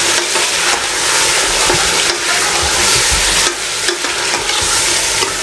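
Marinated chicken and potato pieces sizzling loudly in hot oil in a pressure cooker as they are browned, stirred with a metal slotted spoon that scrapes against the pot now and then.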